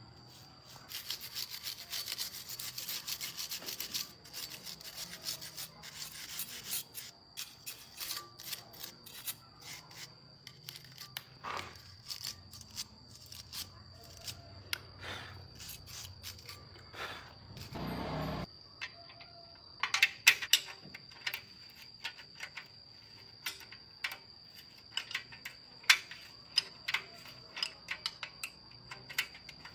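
Hand work on metal motor parts: a run of quick scraping strokes, then irregular clicks and taps. A thin steady high whine runs underneath, and the sharpest taps come about two-thirds of the way in.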